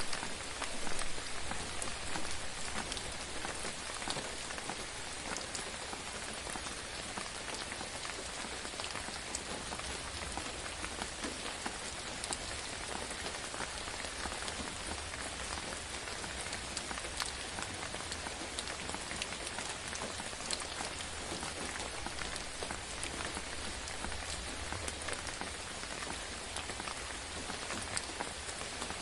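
Steady rain falling on a surface, an even hiss with scattered sharp ticks of single drops.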